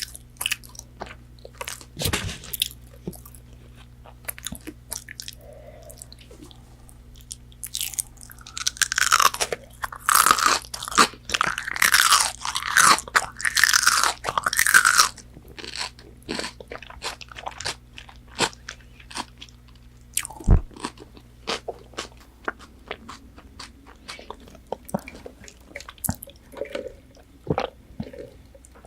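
Crunchy bites and chewing of McDonald's chicken nuggets. A run of loud, dense crunching runs from about eight to fifteen seconds in, then gives way to quieter chewing with scattered small clicks.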